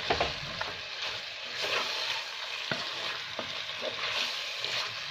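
Chicken pieces frying in oil with curd and mint in a clay pot, sizzling steadily while a spoon stirs them, with a few sharp clicks of the spoon against the pot.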